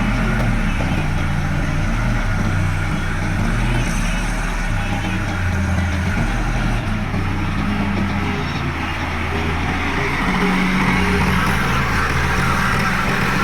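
Heavy diesel machinery engine running, its low note shifting up and down as it works, and growing louder from about ten seconds in.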